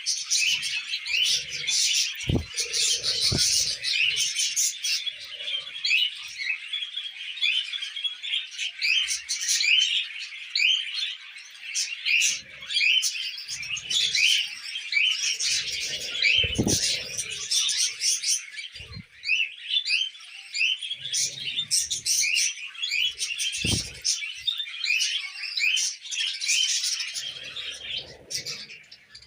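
Several budgerigars chattering and warbling without a break, in quick high chirps. A few short low thumps come through now and then.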